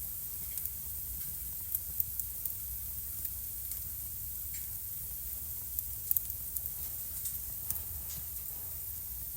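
Wood fire burning in a fireplace, crackling: irregular sharp pops and ticks over a steady hiss, with a louder double pop about six seconds in.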